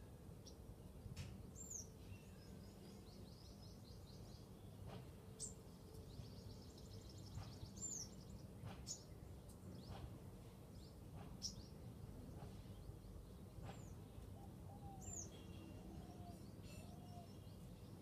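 Faint birdsong from small birds: scattered sharp, high chirps that drop in pitch and a couple of rapid trills, with a few lower short calls later on, over a steady low background rumble.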